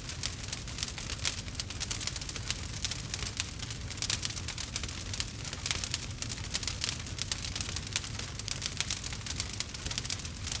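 Campfire crackling, with many small irregular pops and snaps over a low steady rumble of the burning wood.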